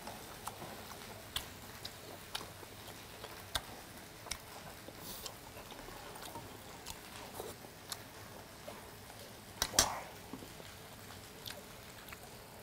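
Close-miked chewing of buckwheat makguksu noodles wrapped with grilled galbi: soft, scattered wet mouth clicks and smacks, with one louder click nearly ten seconds in.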